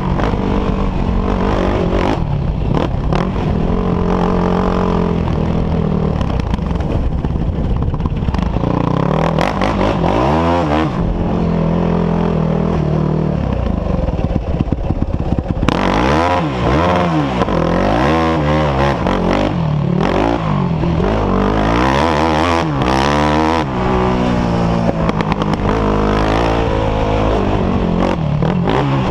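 Off-road engines from a quad and dirt bikes revving up and down, their pitch rising and falling several times over a steady low rumble.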